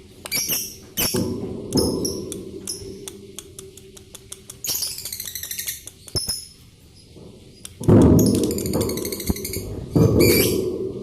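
Lovebirds calling: repeated shrill, high-pitched chirps and quick ticking chatter. Two loud bursts of low-pitched noise come about eight and ten seconds in.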